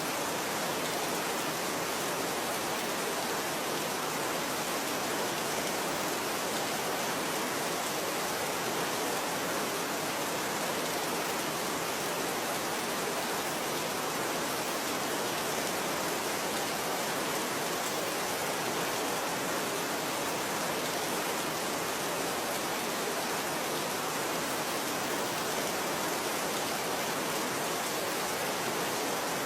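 Steady rain: a dense, even hiss of falling rain.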